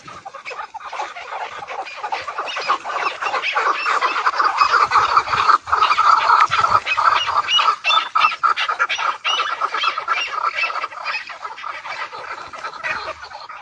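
A dense, continuous din of fighting birds calling over one another, with many sharp clicks mixed in. It is loudest in the middle.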